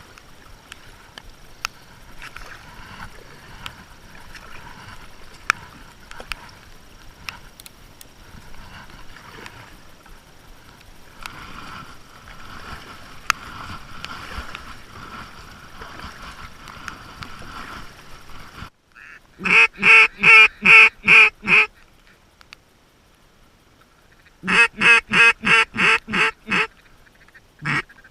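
Steady rain hiss with scattered sharp ticks; then, after a sudden cut about two-thirds of the way in, a mallard duck call blown close by in two loud runs of rapid quacks, about four a second, with a third run starting near the end.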